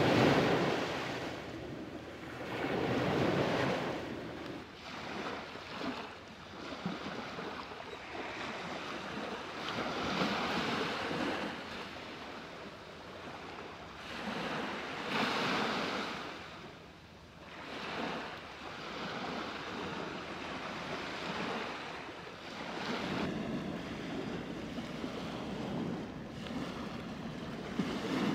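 Waves breaking and washing up a sandy beach, the surf swelling and falling back every few seconds, with some wind buffeting the microphone.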